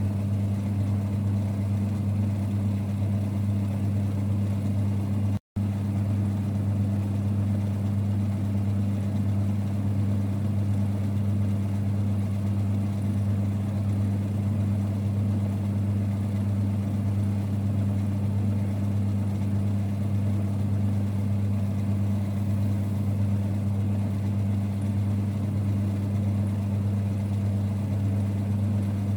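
1946 Boxford lathe running: a steady, even low hum and rumble from its motor and drive, which cuts out for an instant about five seconds in.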